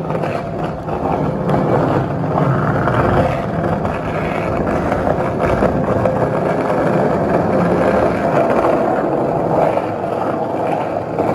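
Skateboard wheels rolling steadily over the concrete of a parking garage, a continuous rough rumble.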